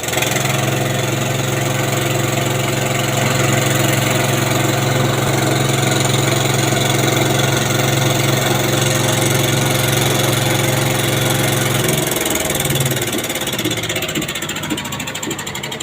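An engine running steadily at an even speed, its note breaking up and dropping away about twelve seconds in, leaving quieter, uneven mechanical noise with a few clicks.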